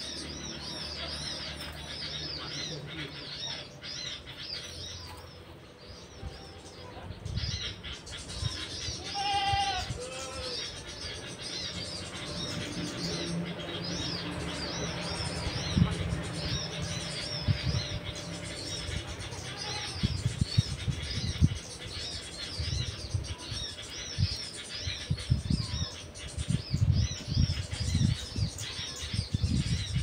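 Small birds chirping in rapid, repeated high calls, with one lower, fuller call about a third of the way in. Low thumps and rustles become frequent in the second half.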